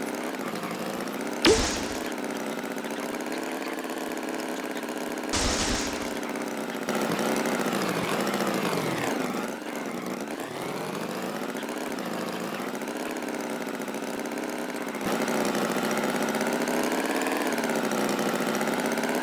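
An engine running steadily at idle, its pitch dipping and rising about halfway through, with two short knocks in the first six seconds.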